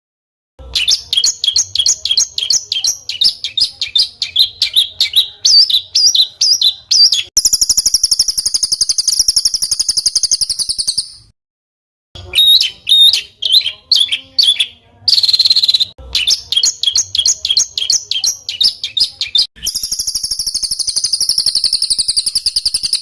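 Songbird singing rough, dense 'tembakan kasar' song: a run of quick sharp high notes that closes into a long rough trill lasting about three and a half seconds. A short pause follows, then another run of quick notes and a second long rough trill near the end.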